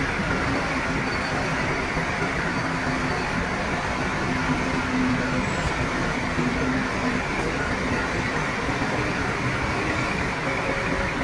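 Heavy diesel earthmoving machinery running steadily.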